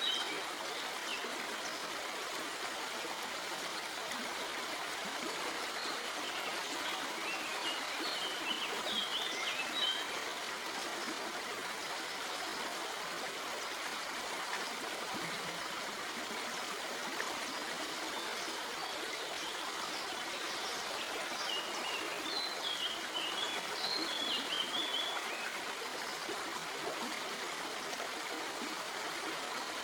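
Stream flowing over rocks: a steady rush and trickle of water. A bird chirps in two short spells, about a third of the way in and again past the two-thirds mark.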